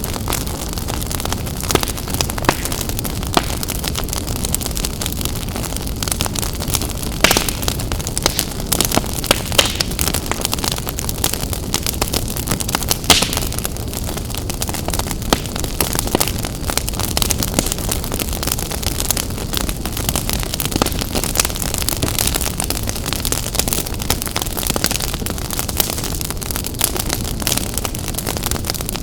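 Wood fire burning in a fireplace: a steady low rumble of flames with constant crackling and frequent sharp pops, a few louder pops about a quarter and halfway through.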